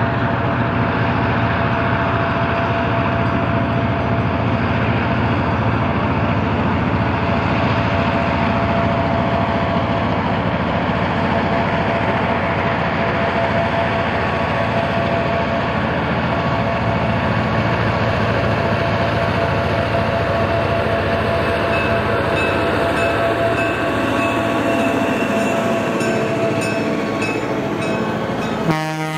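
Heritage railroad passenger train running: a steady, continuous rail noise with a faint steady tone through it.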